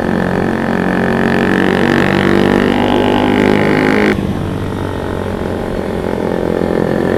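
Motorcycle engine under throttle while riding, its pitch climbing for about four seconds, then dropping abruptly and running on more evenly.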